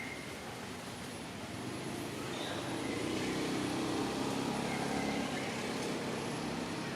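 A motor vehicle engine passing by, a steady hum that grows louder over a few seconds and eases slightly near the end.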